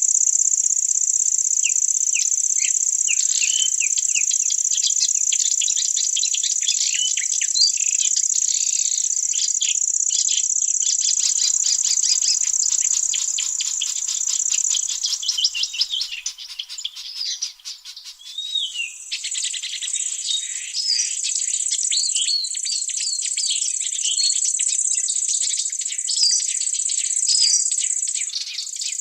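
Forest ambience: a steady, high-pitched insect trill with many birds chirping and calling over it. About halfway through, the trill breaks up and fades for a few seconds before it returns.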